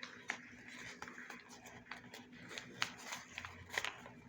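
Handling sounds: a series of light, sharp clicks and taps at uneven intervals over a faint room hum.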